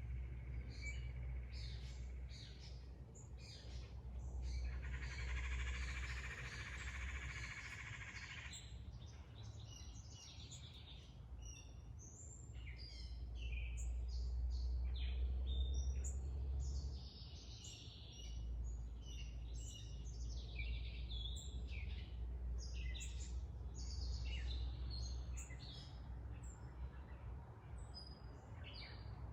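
Several wild birds chirping and singing in short phrases, with a harsh, steady buzz of about four seconds about five seconds in and a low, steady rumble underneath.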